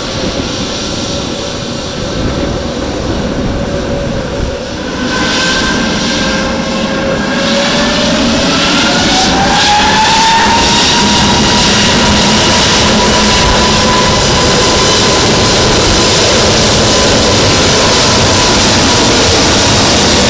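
Airbus A321neo's Pratt & Whitney PW1100G geared turbofan engines spooling up for takeoff. A whine climbs in pitch between about a third and halfway in, then holds steady at high power as the engine noise grows louder.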